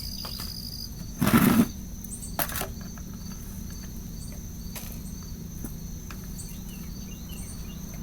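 Crickets trilling steadily while small birds chirp over them. About a second in comes a short, loud rustle of soil being scooped into a plastic salad container, with a softer one about a second later.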